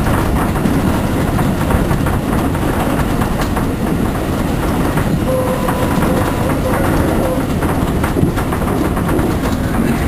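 Loud running noise heard from inside a JR 203 series electric commuter car in motion: a dense rumble over clattering wheels, with the sliding doors rattling. A brief thin whine sounds in the middle.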